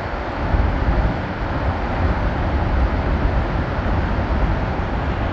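A waterfall swollen by days of heavy rain, crashing onto rocks close by: a loud, steady roar with a deep rumble.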